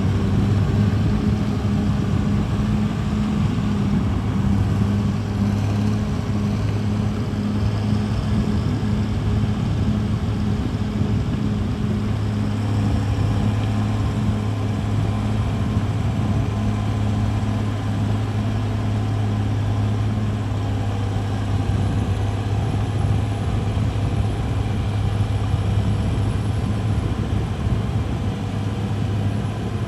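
CAT D6R bulldozer's diesel engine running with a steady, even hum.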